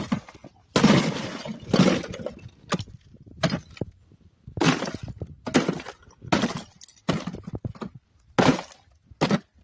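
Ice pick striking and breaking up thick ice in a frozen livestock water tank. About eleven hard chopping blows come roughly a second apart, each with a crack and crunch of shattering ice.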